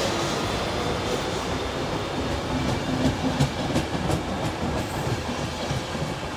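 Passenger coaches of a departing electric-hauled train rolling past, a steady rumble of wheels on rail. About halfway through there is a quick run of sharp clicks as wheels cross rail joints. The rumble slowly fades as the train pulls away.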